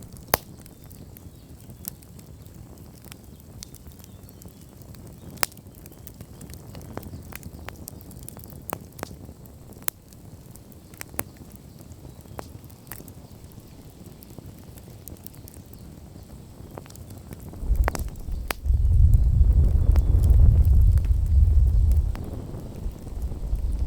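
Campfire wood burning and crackling, with sharp irregular pops over a faint hiss. About eighteen seconds in, a loud low rumble sets in and becomes the loudest sound, easing briefly near the end.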